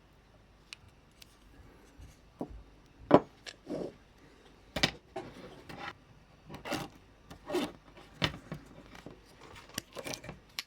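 Small parts of a model train being handled while it is taken apart: irregular clicks, taps and short scrapes, busier from about two seconds in.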